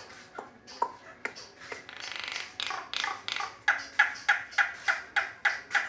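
Asian pied starling calling: a string of short, sharp notes, a buzzy rattle about two seconds in, then a quick run of clipped notes about three a second.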